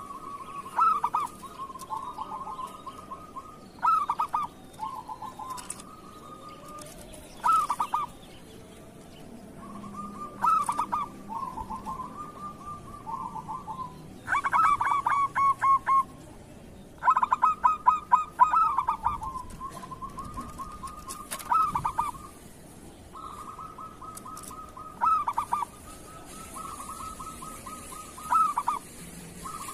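Zebra doves cooing: loud, rapid stuttering coo phrases every few seconds over a steady trilling call.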